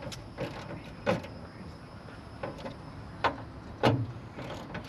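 Irregular sharp clicks and knocks, about seven of them, the loudest near the middle and about four seconds in, over a low steady background.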